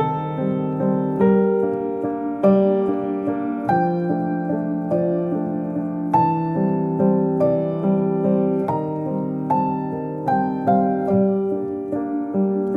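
Background piano music: a gentle, slow piece of sustained chords and single notes.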